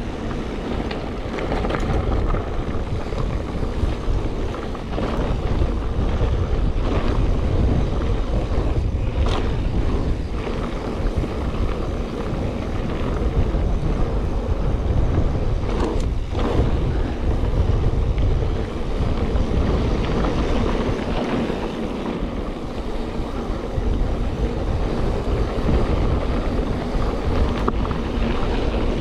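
Wind buffeting the microphone over the rolling noise of mountain bike tyres on a loose dirt trail, with a few sharp knocks and rattles from the bike.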